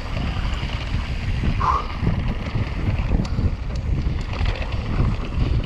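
Wind buffeting the microphone of a rider's camera on a fast mountain bike descent, a heavy uneven rumble with scattered rattling clicks from the bike over rough ground. A short squeak comes about a second and a half in.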